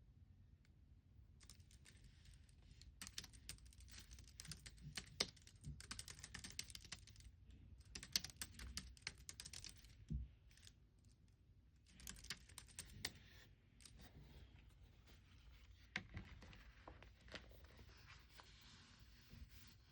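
Computer keyboard typing, faint, in bursts of rapid key clicks broken by short pauses, with a soft low thump about halfway through.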